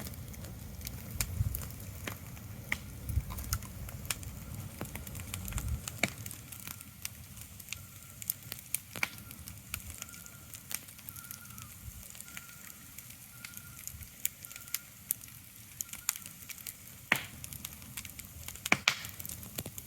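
Irregular sharp crackling clicks over a soft hiss, with a low rumble that fades out about six seconds in and a faint repeated high note in the middle.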